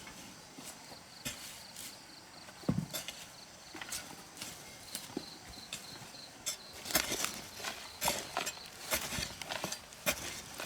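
Irregular knocks and scrapes of soil being shovelled and packed into a post hole, much busier from about seven seconds in. A cricket chirps in the background.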